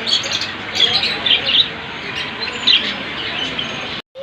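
Many small caged birds chirping at once: a dense mix of short, high chirps and tweets over a constant background hiss. The sound cuts off abruptly near the end.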